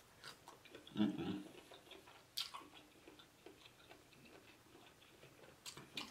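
A person chewing a mouthful of sauce-covered lobster meat, close to the microphone: faint wet mouth sounds and scattered soft clicks, with a louder burst about a second in.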